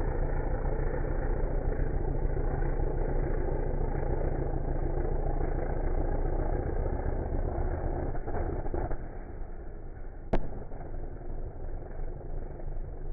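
VW Golf Mk1 drag car's engine pulling away from the start line, heard slowed down as a deep, dull drone that fades after about eight and a half seconds as the car draws away. A single sharp click comes about ten seconds in.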